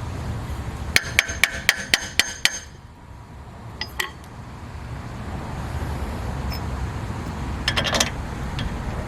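Metal hammer blows: seven quick strikes, about four a second, each with a short metallic ring, then a couple of lighter metallic clinks and a brief clatter, over a steady low rumble.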